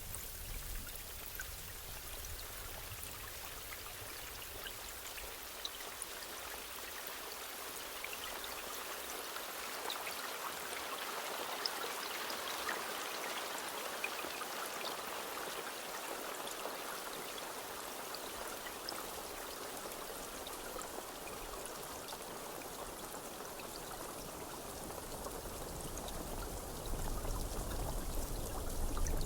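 Steady rainfall, a dense even hiss scattered with small drop ticks, swelling a little in the middle; a low rumble joins near the end.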